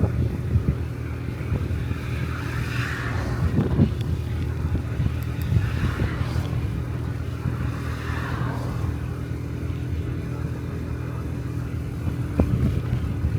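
Honda Dio cesta AF68 50cc scooter's single-cylinder four-stroke engine running steadily under load as it slowly climbs a hill at about 20–25 km/h. A few swells of rushing noise rise and fall over the engine drone.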